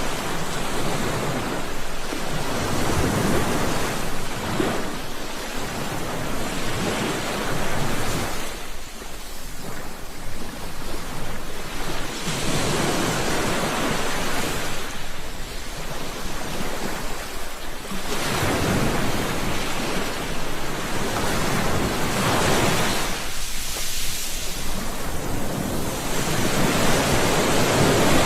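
Sea waves washing onto a shore: a steady hiss of surf that swells and fades with each wave, about every five seconds.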